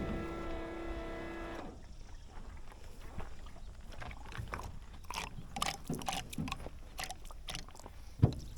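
A steady machine hum cuts off about two seconds in. Then come scattered clicks and knocks of metal parts and tools being handled, and a sharp thump near the end.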